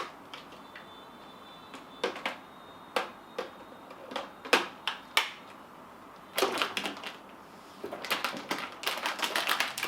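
Hard plastic clicks and knocks from handling the parts of a cordless stick vacuum, scattered at first, then a quick flurry of clicks and rustling about six and a half seconds in and again over the last two seconds.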